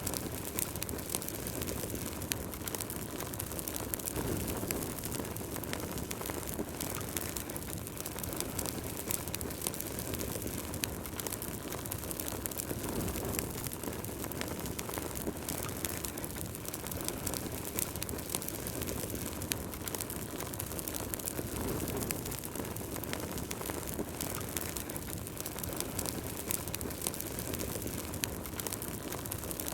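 Wood burning in a fireplace: a steady low rush of flame with dense, irregular crackles and pops from the burning logs.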